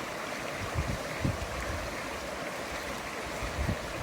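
Creek water running steadily, an even rushing noise, with a few soft low bumps on top.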